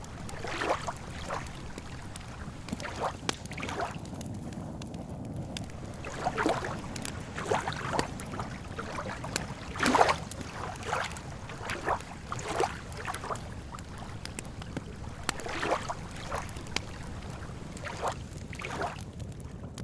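Wood campfire crackling, with irregular sharp pops and snaps, the loudest about ten seconds in, over a steady low rumble.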